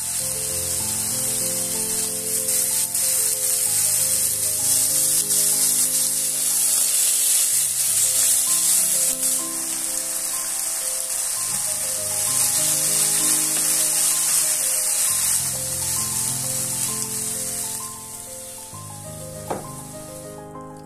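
Diced chicken breast and onions sizzling hard in a frying pan, being stirred. The sizzle fades out near the end, followed by a single sharp knock.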